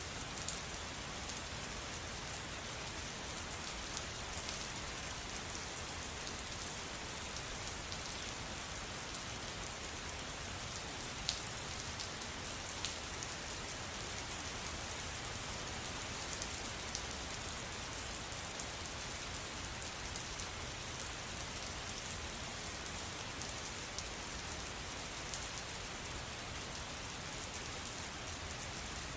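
Steady rain falling, a constant hiss with scattered individual drops tapping close by.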